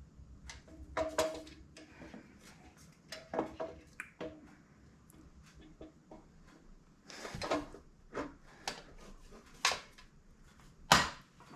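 Metal parts and tools clinking and knocking in scattered taps, a few with a short metallic ring, as exhaust parts are handled and fitted on a two-stroke motorcycle engine; one sharper knock near the end is the loudest.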